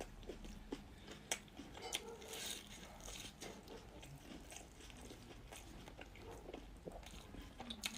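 Faint sounds of a person eating: chewing and biting, with a few sharp clicks.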